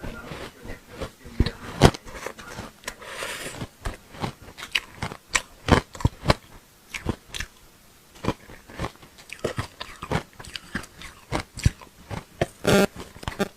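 Ice chunks coated in matcha powder being bitten and chewed close up: a run of sharp, irregular crunches, several a second, with a longer, louder crunch near the end.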